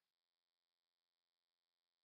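Near silence: the audio is essentially empty.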